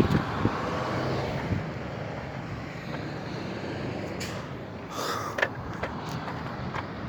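A road vehicle driving past, its engine and tyre noise loudest in the first second or two and then fading, with wind rumbling on the microphone.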